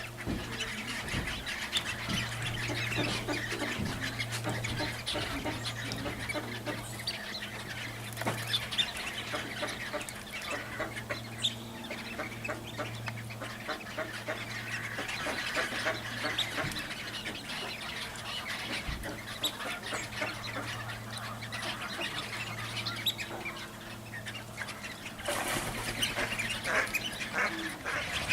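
A large flock of waterfowl, mostly ducks, quacking and chattering: many overlapping short calls all the way through, over a steady low hum.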